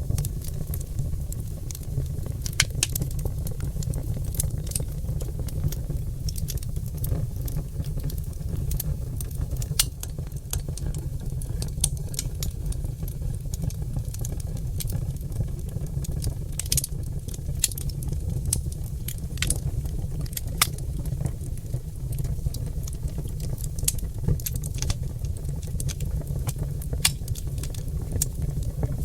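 Oak logs burning in a fireplace, crackling with many sharp, irregular pops over a steady low rumble.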